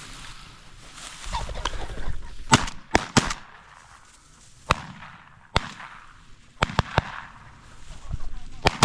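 Shotgun shots from several hunters firing at flushed pheasants: about ten sharp cracks at uneven spacing, some in quick pairs and triplets, the loudest about two and a half seconds in.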